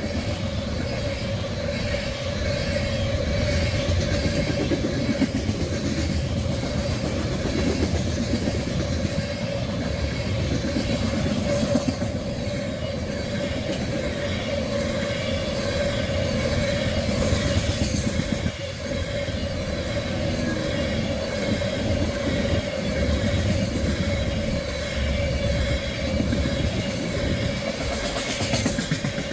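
Freight train of crude-oil tank cars rolling past at close range: steady wheel-on-rail rumble with regular clacks as the cars' wheels cross rail joints, and a steady singing tone over it.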